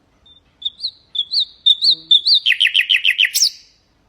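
Nightingale singing one song phrase: a few short rising whistled notes repeated about five times, then a fast run of falling notes, roughly eight a second, that ends in a sharp high upslur.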